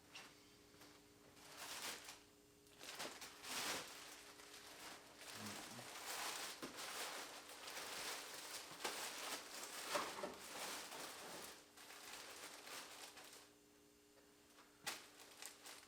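Rustling, scraping and light knocks of items being handled and set onto a toolbox, with a sharp click near the end.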